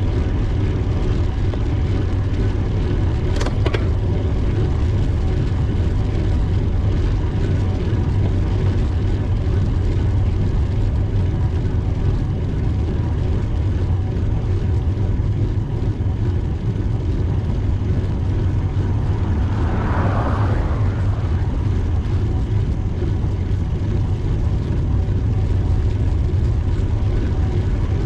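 Steady low rumble of wind and road noise while riding a bicycle, with a brief higher noise about twenty seconds in.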